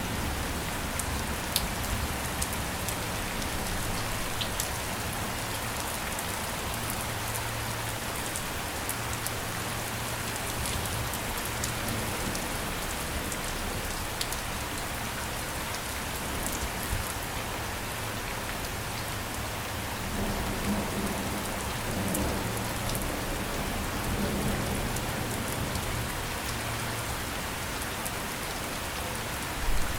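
Steady rain falling, with fine drop ticks spattering on a surface, over a low rumble that swells and fades.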